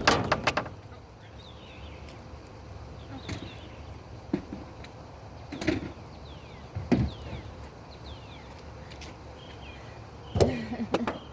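Scattered knocks and clunks of objects being handled, a quick cluster of them at the start and again near the end, with faint high bird chirps in between over a low background rumble.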